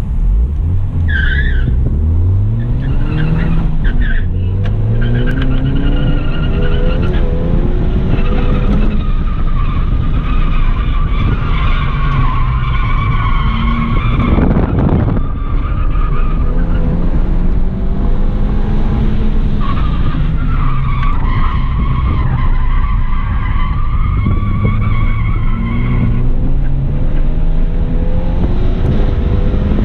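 Stock Ford Fiesta ST's 1.6-litre turbocharged four-cylinder engine, heard from inside the cabin, revving hard through an autocross run. Its pitch climbs and drops at gear changes about two and four seconds in, then rises and falls with the corners. The Bridgestone RE-71R tyres squeal through the turns.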